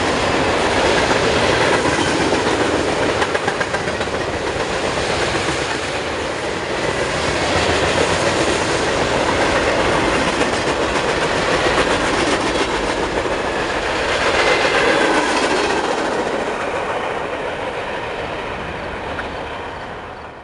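Railroad cars rolling past on the track with steady wheel-on-rail noise, easing off over the last few seconds.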